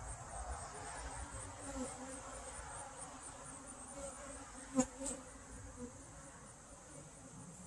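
Honey bees buzzing around an opened hive, a wavering hum. Two sharp clicks come close together about five seconds in.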